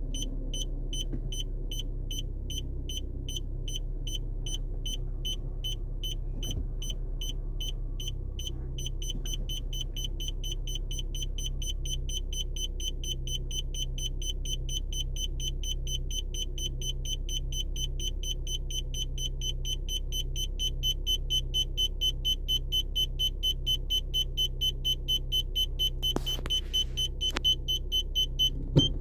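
Car's reverse parking sensor beeping in a rapid, even train of short high beeps, several a second, warning that the car is closing on an obstacle; the beeps grow louder in the last third and stop with a click near the end. A low engine idle hums underneath.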